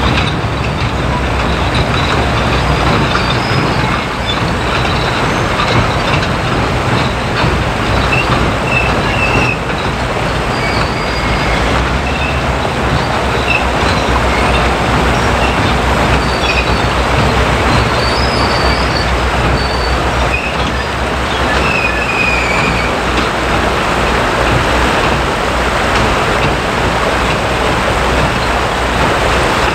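Diesel-hauled train running close by: a steady low engine drone over the rumble of wheels on rails, with a few brief high squeals from the wheels.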